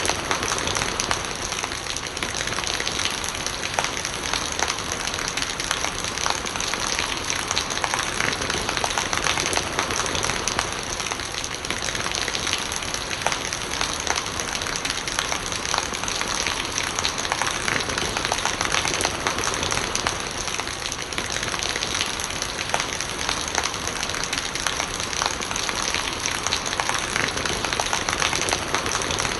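Steady rain falling, with a dense spray of small drop impacts on surfaces.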